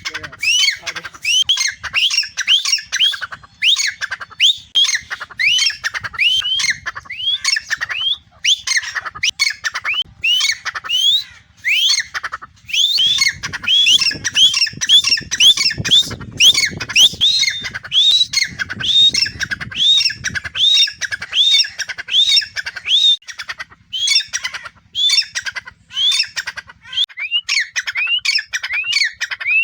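Teetar (francolin partridges) calling non-stop, a fast string of short, loud rising notes, several a second, with two birds' calls overlapping.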